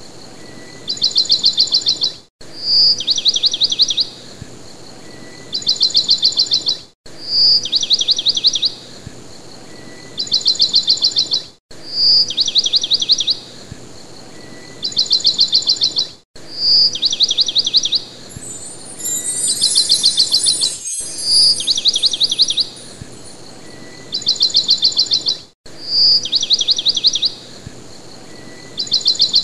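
Songbird song used as a looping background track: a short clear whistle followed by a rapid trill of high chirps, the same phrase repeating about every three seconds.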